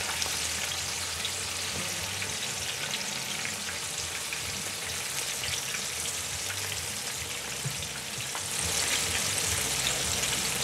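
Halved green bananas shallow-frying in canola oil in a skillet: a steady sizzle with fine crackling, getting somewhat louder about eight seconds in.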